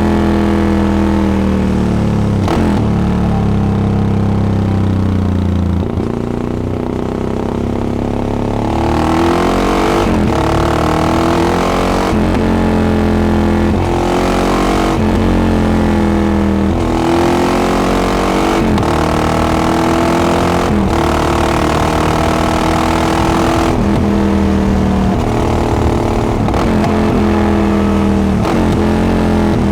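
Yamaha XT660X single-cylinder four-stroke engine through a Devil carbon exhaust, pulling up through the gears and easing off again. Its pitch climbs and drops over and over with short breaks at the shifts, and it goes softer for a few seconds after about six seconds in while the rider backs off.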